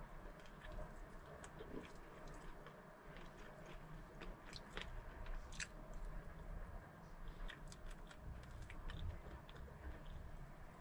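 A person chewing and biting food, with scattered short sharp crunches.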